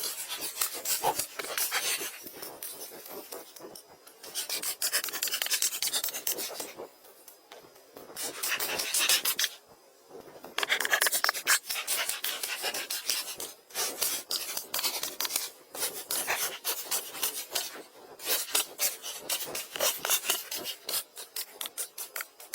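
Rapid rasping, scraping strokes on wood, in runs of a few seconds broken by brief pauses.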